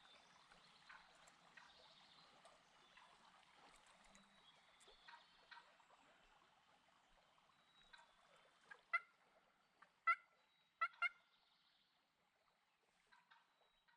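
Wild turkey clucks: a handful of short, sharp notes close together about nine to eleven seconds in, over a near-silent morning.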